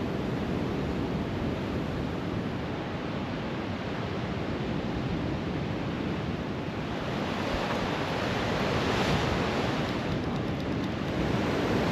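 Steady outdoor rushing noise of wind and weather, swelling slightly in the second half.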